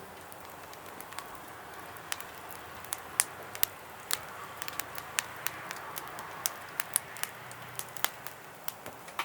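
Campfire crackling: irregular sharp pops and snaps over a low steady hiss.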